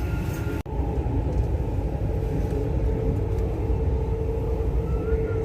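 Dubai Metro train running, heard from inside the carriage: a steady low rumble with a steady hum over it, broken off sharply for a moment about half a second in.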